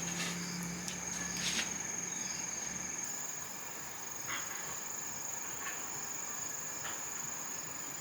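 Insects trilling with one steady high-pitched tone, with a few faint short knocks. A low hum underneath stops about three seconds in.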